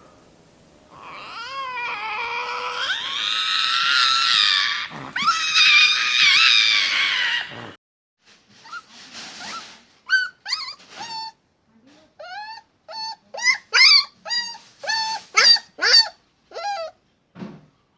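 A dog howling in one long wavering call that steps up in pitch midway, then after a short break a series of short high-pitched yelps and whimpers, about two a second.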